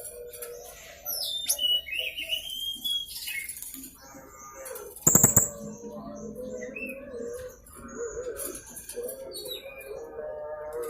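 Young blue-crowned hanging parrot (serindit) calling: a run of high, thin chirps and whistles that rise and fall in pitch, with a brief loud burst about five seconds in.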